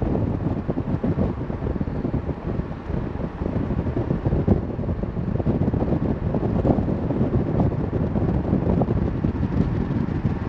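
Car driving: steady road and wind noise heard from inside the moving car.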